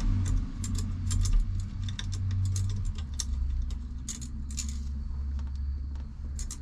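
Small metal hardware clicking and clinking as it is handled and fitted, a scatter of light sharp ticks over a steady low hum.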